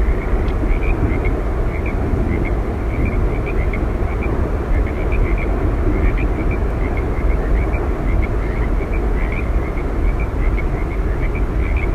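Yosemite Falls roaring: a steady, loud rush of falling water, heaviest in the low end, with a scatter of small high chirps running through it.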